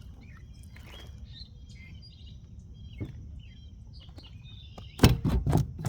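Birds chirping over a low steady rumble, then a quick run of loud knocks and clatter near the end.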